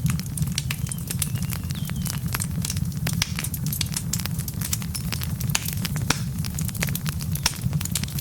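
Wood fire burning in a fireplace: a steady low rumble of the flames with many sharp, irregular crackles and pops from the logs.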